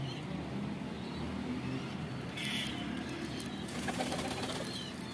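Domestic pigeons cooing in low, repeating phrases, with a few brief higher chirps over them.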